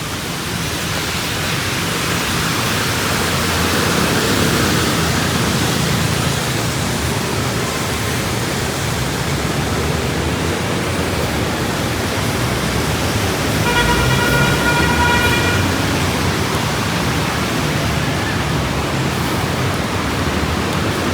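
Steady hiss of rain and road traffic on a wet street. A horn sounds once, held for about a second and a half, just past the middle.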